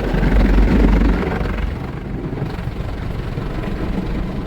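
Vehicle rumble and road noise, a heavy low rumble strongest in the first second or so that then settles to a steady level.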